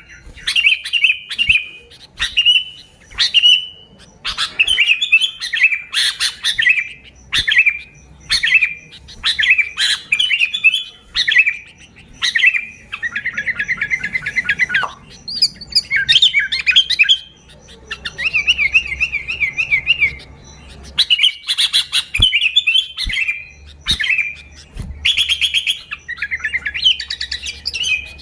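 Sooty-headed bulbul singing busily: short warbled phrases of a few notes repeated every second or so, with two longer rapid trills about halfway through.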